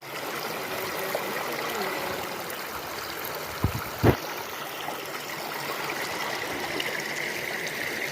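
Rainforest river flowing over rocks: a steady rush of water, broken by two brief thumps a little before the middle.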